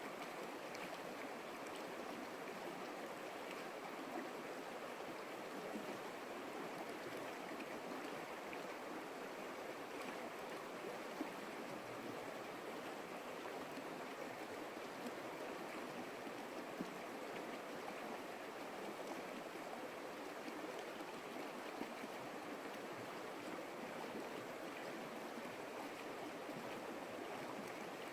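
Stream water running steadily: an even, continuous rushing splash, with a few brief louder splashes here and there.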